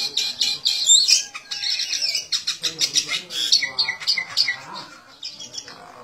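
Birds squawking and chirping shrilly in quick succession: the agitated calls of a rooster squaring off with a small wild bird. The calls are loudest in the first few seconds and fade toward the end.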